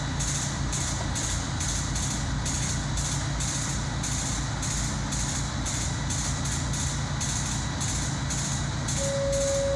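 Train at the station: a steady low hum with a regular high ticking about twice a second. Near the end a train horn begins, sounding one held note.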